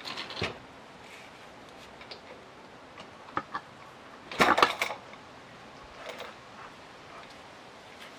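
Hand work with tools and metal parts: scattered clicks and clinks, with a louder burst of clattering about four and a half seconds in.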